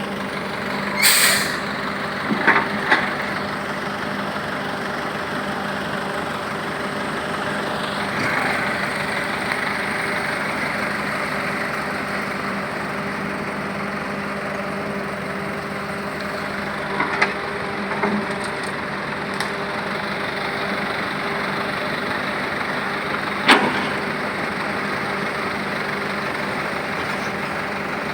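Heavy vehicle engine running steadily, with a few short hisses and knocks; the first is a brief hiss about a second in.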